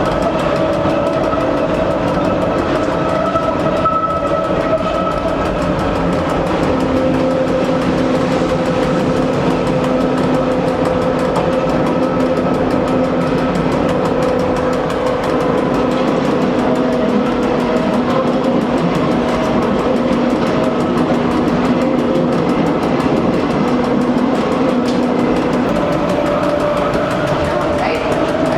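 Electric train running along the line: a steady whine from the motors and gearing over continuous rolling rail noise, its pitch shifting slightly a few times.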